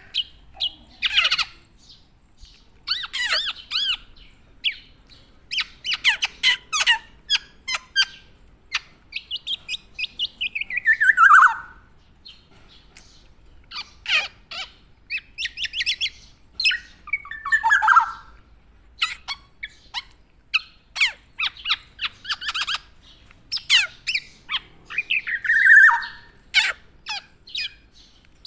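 Black-naped oriole (kepodang) calling and singing busily: a quick run of short, sharp chirps and harsher notes, broken by three longer slurred whistles that slide down in pitch.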